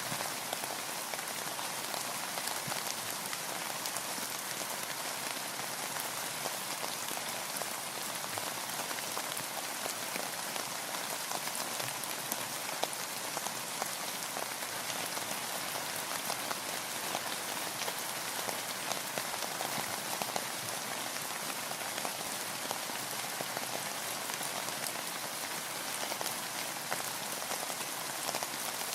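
Steady rain falling on a boat, a dense even patter of many small drops.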